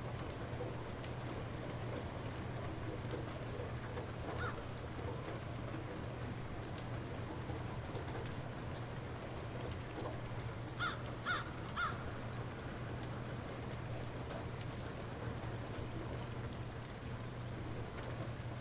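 Light rain falling steadily, with a bird giving three short calls about halfway through and one fainter call earlier. A steady low hum runs underneath.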